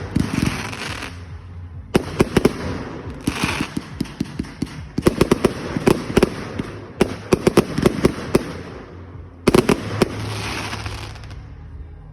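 Fireworks going off: quick volleys of sharp bangs, several to a volley, each followed by about a second of crackling hiss. The last volley comes about ten seconds in, and the sound then dies away.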